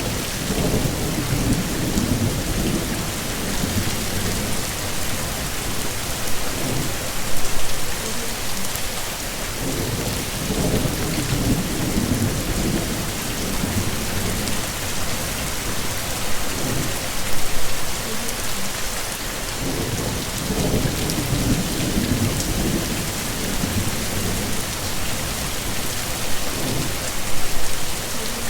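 Heavy, steady rain hissing, with low rolling thunder swelling up about three times. A few brief louder spikes stand out from the rain.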